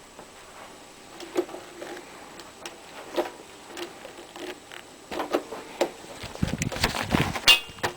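Scattered clicks and knocks of a vintage Hoover Convertible upright vacuum cleaner being handled and turned over, with a busier stretch of clatter and low rumble near the end.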